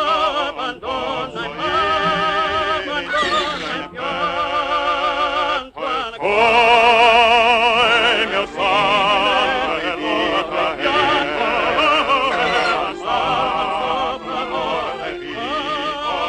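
Operatic singing: several voices singing together in harmony with wide vibrato, broken by a short pause about two thirds of the way... then resuming louder.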